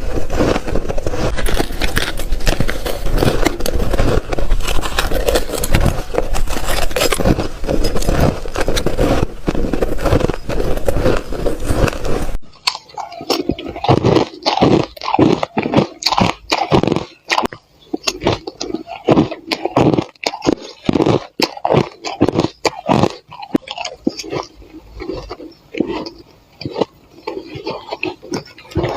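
Shaved ice being bitten and chewed close to the microphone. For about the first twelve seconds the crunching is dense and unbroken; then it changes abruptly to separate crisp crunches, several a second, with short gaps between them.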